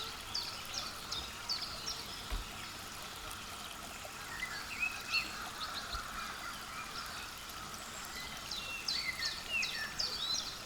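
Small songbirds giving rapid, high, short chirps and calls, several birds at once. The calls thin out for a few seconds midway and grow busier near the end.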